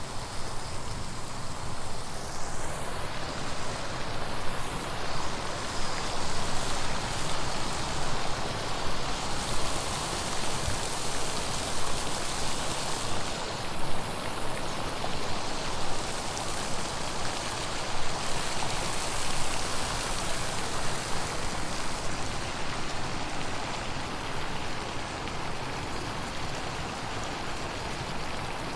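Steady rush and patter of splashing water, an unbroken hiss.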